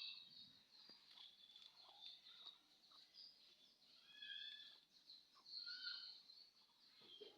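Birds chirping faintly, many short high calls overlapping with one another.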